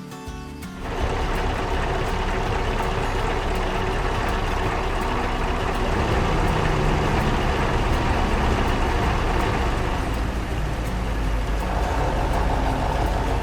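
Heavy vehicle engine running steadily with a deep rumble, starting suddenly about a second in.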